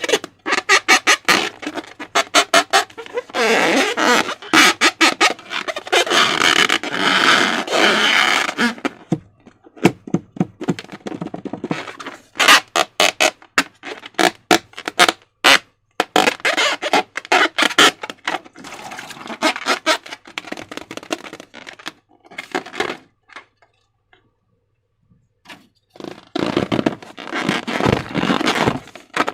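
Slime being squished and worked by hand: rapid runs of wet clicks and pops, with denser crackling stretches, stopping briefly about three quarters of the way through.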